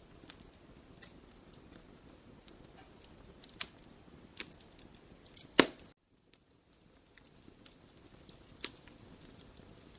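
Wood fire burning in a fireplace, crackling with scattered sharp pops, one much louder pop a little past halfway.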